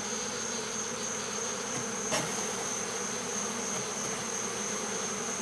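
Honeybee swarm buzzing steadily as its frames are handled, with a thin steady high tone above the hum and a single short knock about two seconds in.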